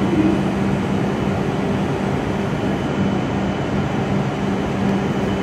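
A stationary W7 series Shinkansen trainset standing at the platform, its on-board equipment giving a steady low hum over a constant hiss.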